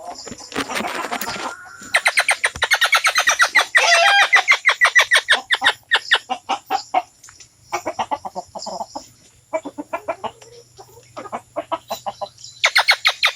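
Bird calls in fast runs of short repeated notes, each run lasting a few seconds, with sparser notes between them; there is a brief rustling noise near the start.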